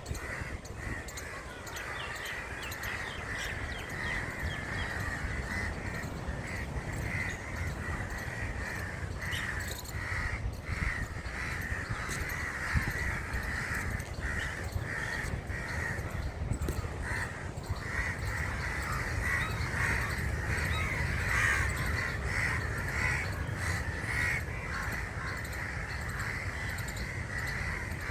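Crows cawing continually, many short calls overlapping, over a steady low rumble.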